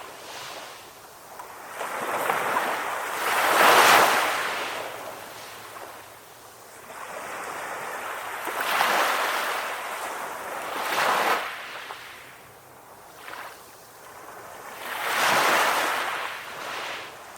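Sea waves breaking and washing up on a beach, rising and falling in repeated surges, the loudest about four seconds in.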